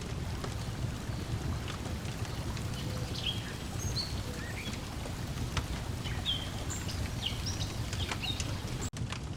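Lakeside ambience: lake water lapping over a steady low rush, a wood fire crackling with frequent sharp pops, and small birds chirping in short calls. There is a brief dropout near the end.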